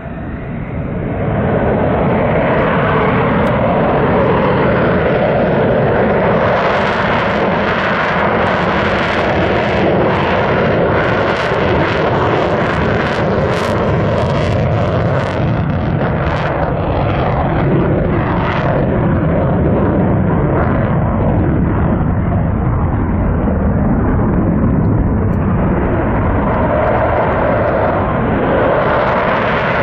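Loud jet noise from an F-35 Lightning II fighter's single Pratt & Whitney F135 engine, building over the first couple of seconds and then holding steady, with a crackling edge through the middle stretch.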